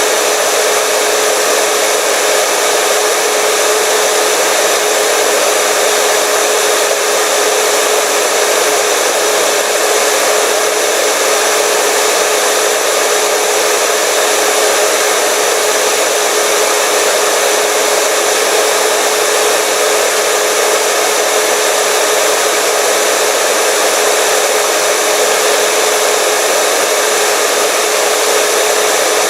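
Hair dryer running steadily: a constant rush of blown air with a steady motor hum and a high whine, unchanging throughout.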